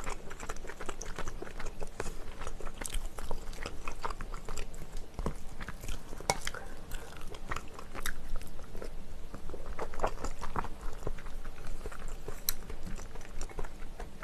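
Close-up eating sounds: chewing and biting into spicy fried chicken, with irregular small crunches and wet mouth clicks.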